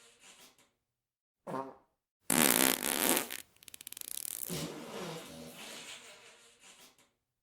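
A string of fart sound effects: a short pitched one, then a loud airy blast that breaks into a fast flutter, then a longer pitched one that trails off.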